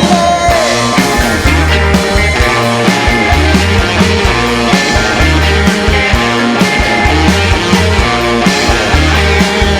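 Rock band playing live: distorted electric guitars, bass and drums driving a steady beat, without vocals.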